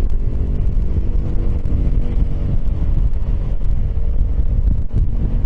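Piaggio X10 maxi-scooter riding at a steady pace, its engine running under a low, buffeting wind rumble on the helmet microphone.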